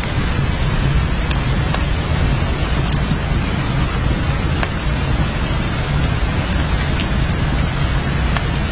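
Steady heavy rain, with many sharp drop ticks scattered over a constant low rumble.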